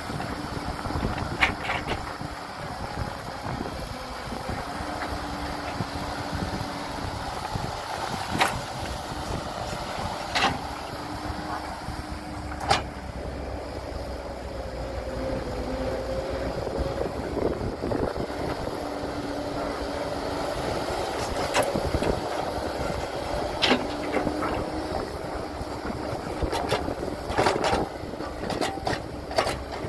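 Diesel engine of heavy earth-moving machinery running steadily, with a dozen or so sharp knocks scattered through it.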